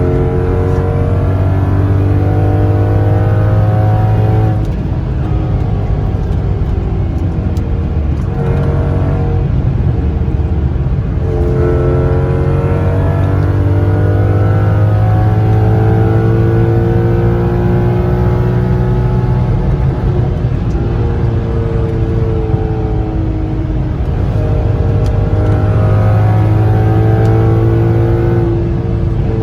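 2002 Audi S6 Avant's naturally aspirated 4.2-litre V8 through a catless 3-inch true dual exhaust and a dual-in, dual-out Magnaflow muffler, run under harsh throttle. The exhaust note repeatedly climbs in pitch and drops back, about five times.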